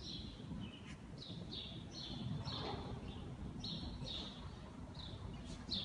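Small birds chirping, short high calls repeating about twice a second, over a faint low rumble of the riding hall.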